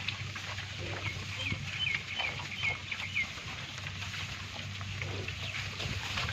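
A bird gives a quick run of about seven short chirps starting about a second and a half in, over a steady low hum and scattered small clicks.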